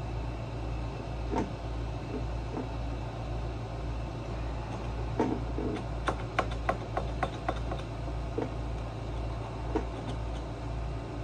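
Sharp clicks and light knocks of hand tools and small parts being handled during generator disassembly, clustered about five to eight seconds in, over a steady low hum.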